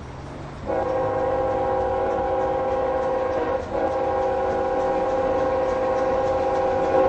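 Locomotive horn sounding two long, steady blasts, the chord of several tones held for about three seconds each with a brief break between them, very loud as the train passes.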